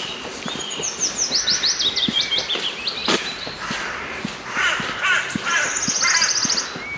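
Several songbirds singing in a spring dawn chorus. One song is a run of short high notes that steps down in pitch over about two and a half seconds; other birds answer in the second half, ending with a fast high trill near the end.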